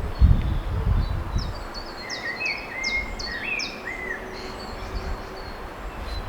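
Small songbird calling: a quick run of short chirps and sharp, high falling notes over a few seconds, against outdoor background noise. A low rumble fades out in the first second or so.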